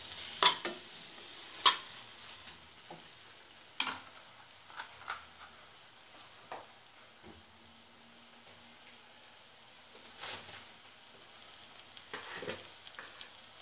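Pounded elephant apple frying in a hot pan of mustard oil, sizzling steadily just after vinegar has gone in. A plastic spatula scrapes and stirs it against the nonstick pan a few times in the first four seconds and again about ten seconds in.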